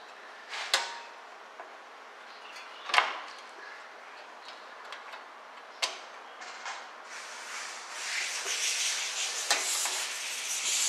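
Metal clinks and knocks of drum brake parts and tools being handled, with sharper knocks about a second, three seconds and six seconds in. From about seven seconds in, a steady hiss joins them.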